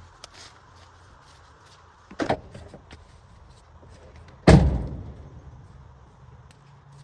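A shorter metallic clack about two seconds in, then one loud slam of a car being shut, with a short ringing decay.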